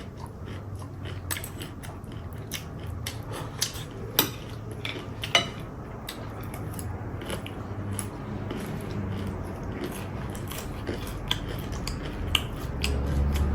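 Eating sounds close to the microphone: chewing, with scattered sharp clicks and clinks of cutlery against dishes.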